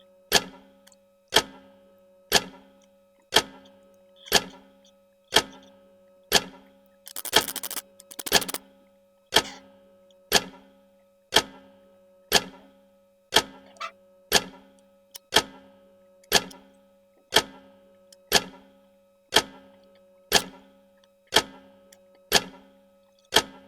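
A clock ticking steadily, one sharp tick about every second, each with a brief ringing tone. A short burst of noise comes about seven seconds in.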